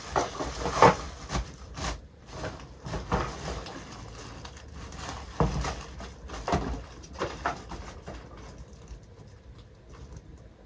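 Kitchen utensils and their packaging being handled: irregular clicks, knocks and rustles that thin out near the end.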